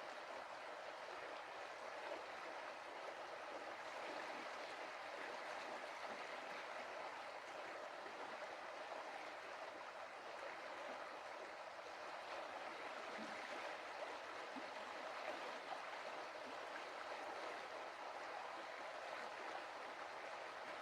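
A stream of water running and splashing over stones, a steady rushing.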